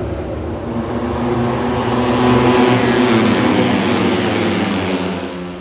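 Racing motorcycle engines on the circuit, a loud pitched engine note that swells to a peak about halfway through and then fades.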